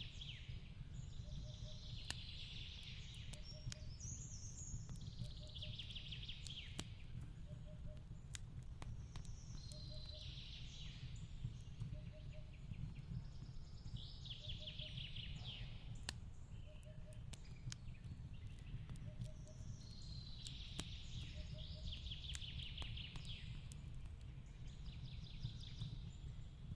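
Fireplace crackling, with scattered sharp pops over a steady low rumble. A songbird sings a short trilling phrase about every four seconds, and a faint soft double note repeats about once a second.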